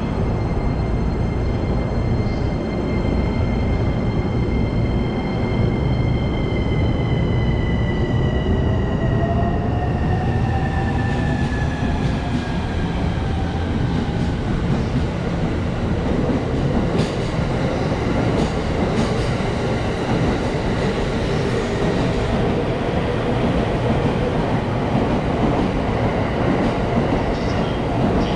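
Electric train running with a steady rumble and a motor whine that slides down in pitch over several seconds, as the train slows. A few sharp clicks come later on.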